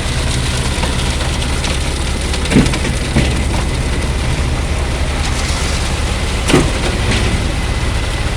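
Heavy diesel engine of the concrete-pouring machinery running steadily, with three short sharp knocks over it.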